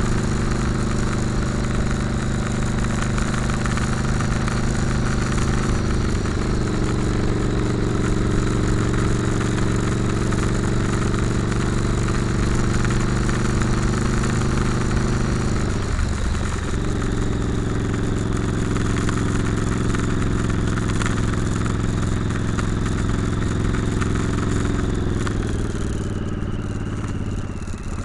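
Motorcycle engine running steadily at road speed under a constant rush of noise. The engine note breaks briefly about halfway through, then falls and eases off near the end as the bike slows.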